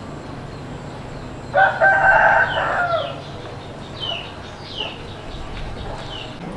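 A rooster crowing once, starting about a second and a half in and lasting about a second and a half, dropping in pitch at the end. A few short, high, falling chirps follow.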